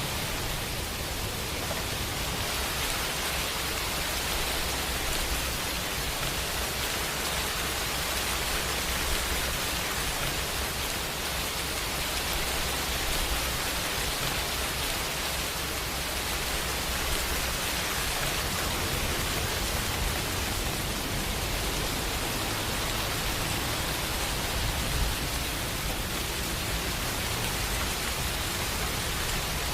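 Steady rain falling, an even hiss of many drops on a surface, with a low rumble underneath.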